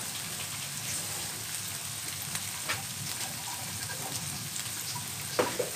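Diced ham and scrambled egg frying in a wok: a steady sizzle with scattered small crackles, and one sharper click near the end.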